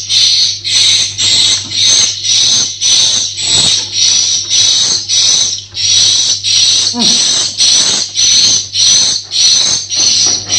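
Swiftlet calls: rapid, evenly repeated chirps, nearly two a second, with a faint steady low hum underneath.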